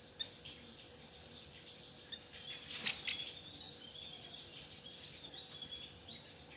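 Faint, thin, high chirping notes of a small songbird, broken and repeated, over a steady high insect-like whine. There is a brief louder click-like burst about three seconds in.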